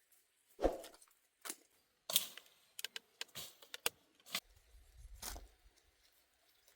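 A series of irregular sharp clicks and knocks, as of small objects being handled, with a brief low rumble about two-thirds of the way through.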